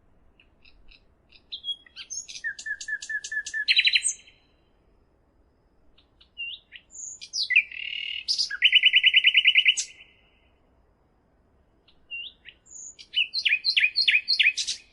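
A songbird singing three separate phrases, each opening with a few scattered high notes and ending in a fast trill of repeated notes, with brief pauses between them.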